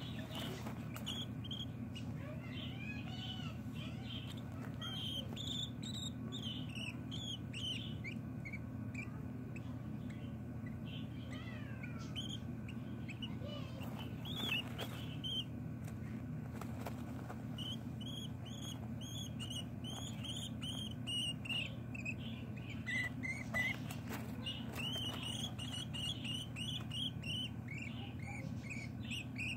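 Baby budgerigars chirping: quick, high-pitched peeps in clusters throughout, thickest in the last third, over a steady low hum.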